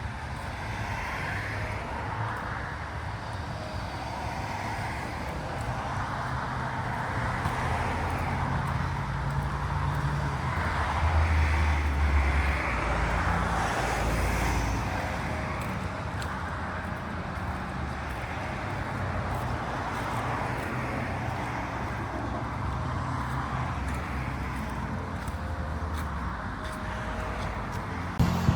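Road vehicle noise: a low engine hum with tyre and road noise that swells and fades, loudest about eleven seconds in.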